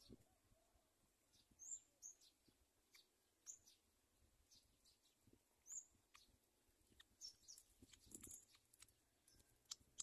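Faint, high bird chirps, short calls every couple of seconds, with a few clicks and a brief rustle about eight seconds in.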